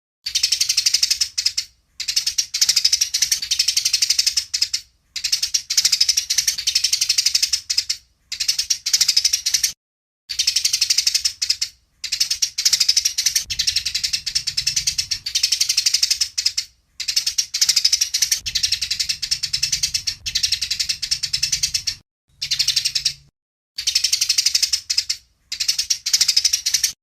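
Eurasian tree sparrows chirping fast and harshly in a fight, a dense run of high chirps. It comes in stretches of a few seconds, each broken off by a short, sudden silence.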